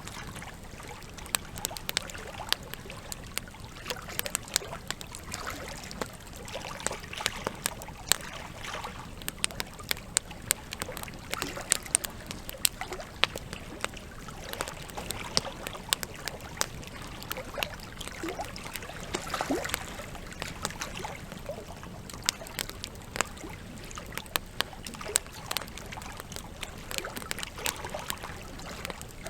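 Wood campfire burning, with frequent sharp, irregular crackles and pops from the logs over a steady hiss, and water trickling beneath it.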